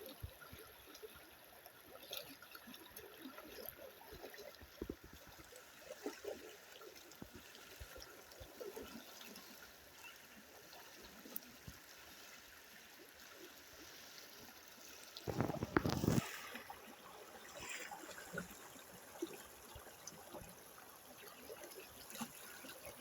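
River water trickling, with small splashes from a person washing in it. One louder splash comes about fifteen seconds in.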